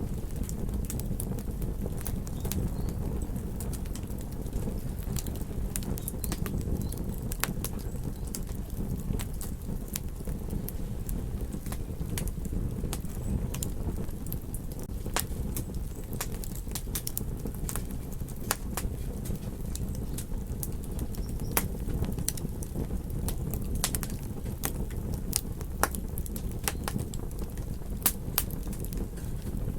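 Campfire crackling, with frequent sharp irregular pops over a steady low rumble of ocean surf.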